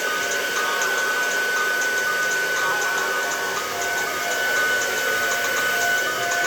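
Hair dryer blowing steadily, its airflow noise carrying a steady high whine.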